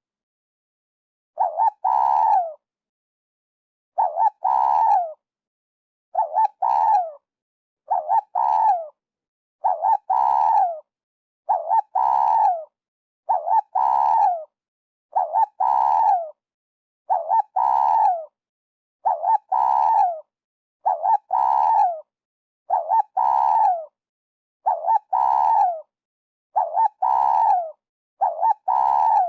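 Spotted dove cooing: a phrase repeated roughly every two seconds, each a short note followed by longer notes that fall away at the end, with clean silence between phrases.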